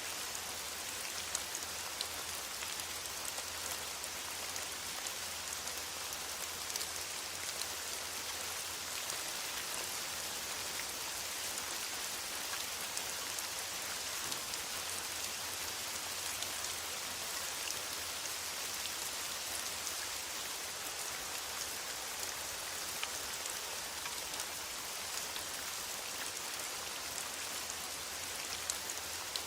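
Steady rain falling on forest foliage, a soft even hiss with scattered drop ticks.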